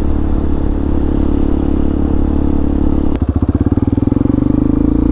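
Hawk 250 dual-sport motorcycle's single-cylinder engine running as it is ridden along a dirt trail. About three seconds in, after a click, the steady note changes to a loud, fast pulsing beat.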